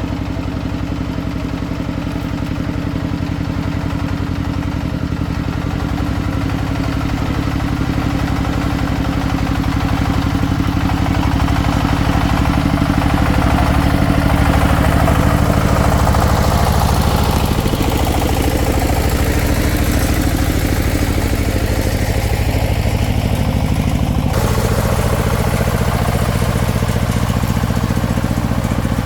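Single-cylinder diesel engine of a công nông farm vehicle running steadily with a fast, even chugging. It gets louder toward the middle, and its tone changes abruptly near the end.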